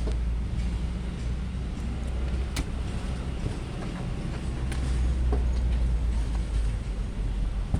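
Truck engine running steadily at a low rumble, with a few sharp knocks over it.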